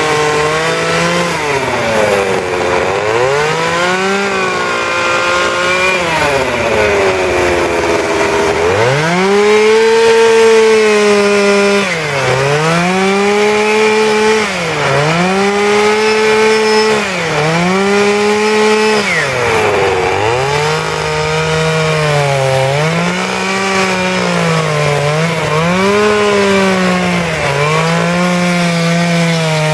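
Petrol chainsaw carving wood, its engine pitch dipping and recovering every second or two as the chain bites into the wood and frees again.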